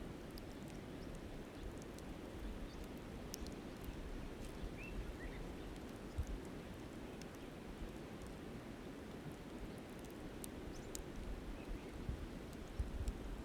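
Wood campfire crackling with scattered sharp pops over a steady rush of flowing river water. A bird chirps briefly a few times, and low buffeting near the end.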